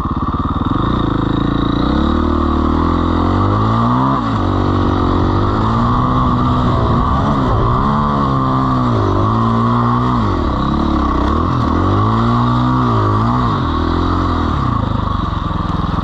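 Dirt bike engine under hard throttle in sand. Its pitch climbs over the first few seconds, then drops and picks up again five or six times as the throttle is eased and reapplied.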